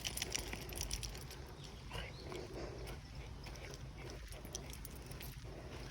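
Faint, irregular footstep clicks and scuffs of people and dogs walking, over a steady low rumble.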